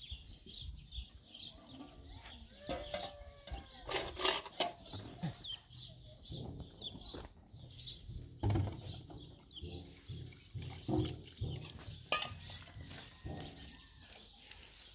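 Small birds chirping in short repeated calls, with scattered knocks and a few low calls underneath.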